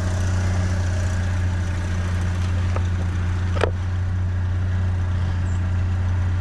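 Vehicle engine idling steadily, a low even hum, with a sharp click about three and a half seconds in.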